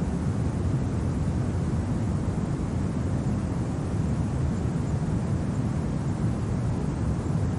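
Steady low wind rumble of a winter ambience, an even noise with no gusts or crackles.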